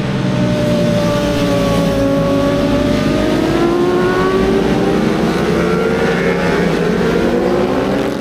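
Racing motorcycles lapping the track at high revs. The engine pitch dips a little, then climbs steadily over several seconds as they accelerate.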